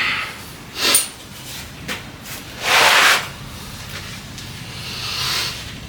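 Forceful hissing exhalations of a person exercising, the loudest a half-second breath about three seconds in, with a sharp click about a second in.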